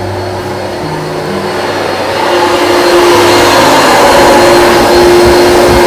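Rug Doctor carpet cleaning machine running, its vacuum motor drawing water out of flood-soaked carpet with a steady whine. It grows louder about two seconds in and then holds steady.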